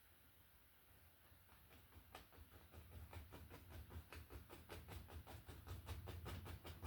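A paintbrush tapping and stroking paint onto a stretched canvas, putting in trees. The strokes come as faint, quick, even taps, about four a second, starting about a second and a half in and growing louder.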